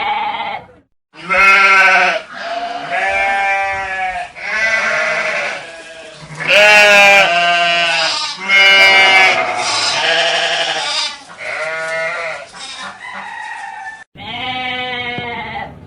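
Livestock bleating: a string of about eight calls, each a second or two long, with a quavering, wavering pitch.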